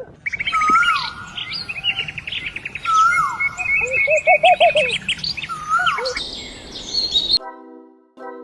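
Birds chirping and calling: rapid trills, swooping whistles and repeated rising-and-falling notes. The birdsong cuts off abruptly near the end, and a sustained musical tone begins.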